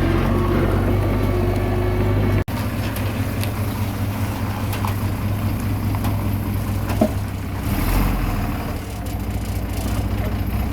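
Komatsu D21A bulldozer's diesel engine running steadily, with a sudden brief break about two and a half seconds in before it carries on.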